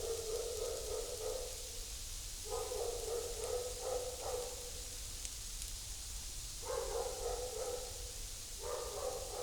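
A dog whining in repeated spells of one and a half to two seconds, four times, over a steady hiss.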